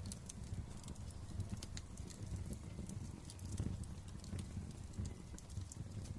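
Wood fire crackling: many small, irregular sharp pops and snaps over a low, steady rumble of burning.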